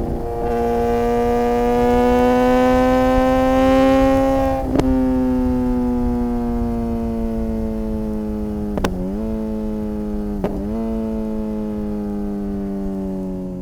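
Suzuki GSX-R600 inline-four engine under way at a steady high engine speed. The note rises gently for about four seconds, then slowly falls as the bike eases off, with a sharp click about a third of the way in and two brief dips in pitch, each with a click, later on.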